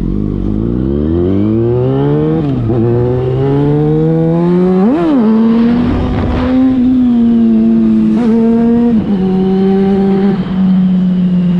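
Yamaha FZ6's 600 cc inline-four through a LeoVince aftermarket exhaust, accelerating through the gears. The revs climb and drop at a shift about two and a half seconds in, climb again to a quick peak near five seconds, hold steady, then drop at another upshift about nine seconds in.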